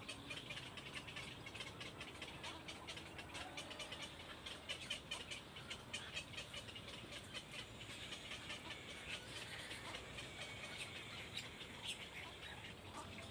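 Small birds chirping in a rapid, continuous stream of short high notes.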